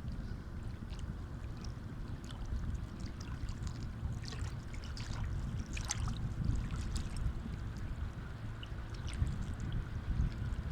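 Sea waves washing on a shore: a steady low wash with short crackling splashes of water, busiest midway through and again near the end.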